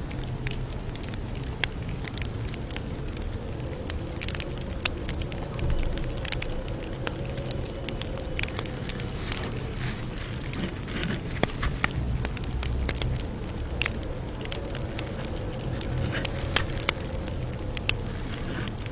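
Campfire burning: wood crackling with sharp, irregular pops over a steady low rumble of the flames.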